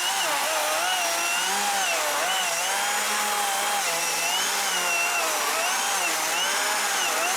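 Chainsaw running steadily as it cuts into a thick log, its whine wavering up and down as the chain bites and eases. The log is too thick for the saw's bar, so it is being cut in sections.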